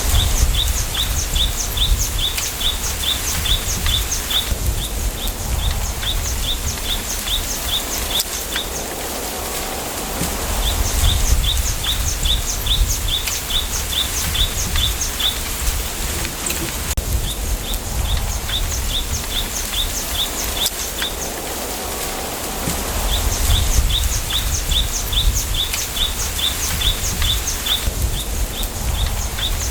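Bamboo-forest ambience: a bird repeats short high chirps, about three or four a second, in bouts of several seconds, over the steady hiss of wind in the bamboo and a low rumble that swells and fades with the gusts.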